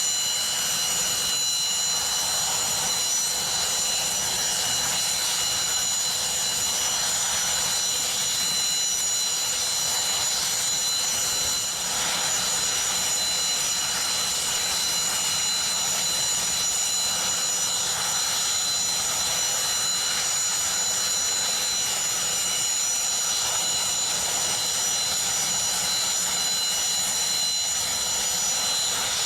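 Mi-26 helicopter's twin turboshaft engines and main rotor running steadily. Even noise topped by a constant high turbine whine.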